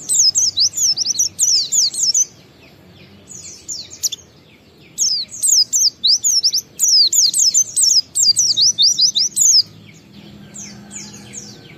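A white-eye (pleci) singing a fast twittering song of rapid, high, falling notes. The song comes in long bursts, a loud one at the start and another about five seconds in, with softer phrases in the pauses and near the end.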